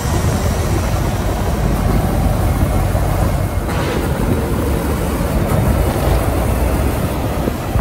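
Heavy truck on the road: a steady low engine rumble mixed with road and tyre noise.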